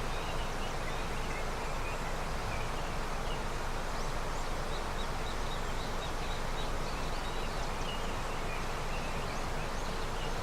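A river running with snowmelt, a steady even rush of water, with faint, scattered high bird chirps over it.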